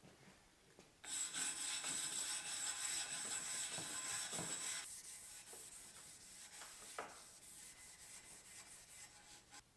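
Abrasive rubbing, like sanding or filing, that starts suddenly about a second in with a high whine in it, loudest for a few seconds and then going on more quietly until it cuts off abruptly near the end.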